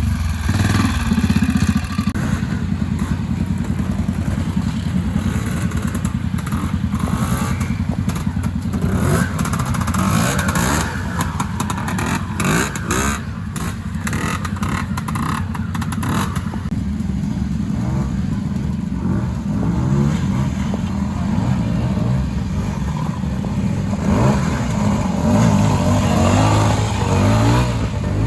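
Trials motorcycle engine running at low revs and blipping the throttle as it climbs a section, with a run of clicks and clatter in the middle.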